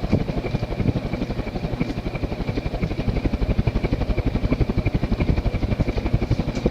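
Antique Emerson Longnose 56-inch cast-iron ceiling fan running on medium speed, about 190 RPM. Its blades chop the air in a rapid, even pulsing beat as the moving air buffets the microphone.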